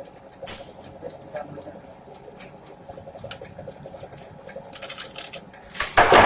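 Scattered light knocks and clatter under faint voices, then a loud heavy impact near the end.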